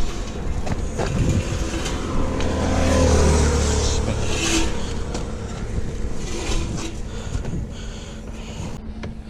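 A motor vehicle's engine swelling to its loudest about three seconds in and then fading away, like a car passing by, with a few scattered knocks.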